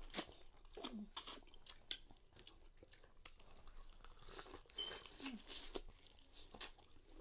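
Two people biting and chewing corn on the cob close to the microphone: irregular sharp crunches as kernels are bitten off the cob, with chewing between them.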